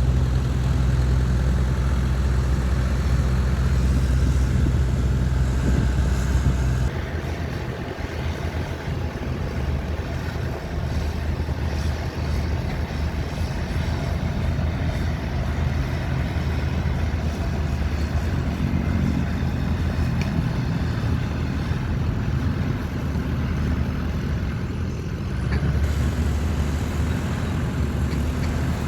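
Heavy diesel engines of earthmoving machinery, a bulldozer and dump trucks, running with a steady low rumble. The sound drops abruptly about seven seconds in and grows louder again near the end.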